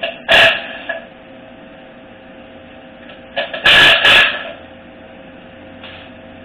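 Short clattering knocks of hard objects, once near the start and a louder double knock about halfway, over a steady shop hum.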